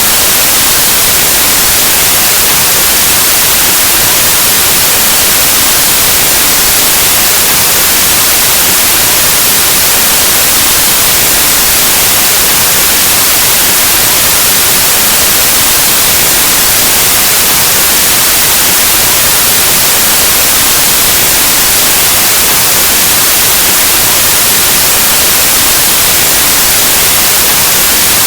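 Steady, loud white noise: an even hiss like analog television or radio static, unchanging throughout.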